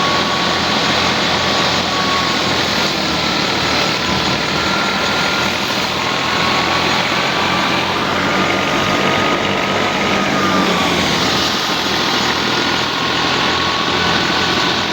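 Al-Ghazi tractor engine running steadily under load while it drives a threshing machine, a dense, even mechanical noise with a faint wavering whine above it.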